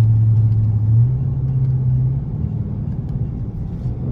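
Straight-piped Dodge Charger R/T V8 exhaust droning while driving. The low note steps up slightly about a second in, then drops to a quieter rumble just after two seconds as the throttle eases.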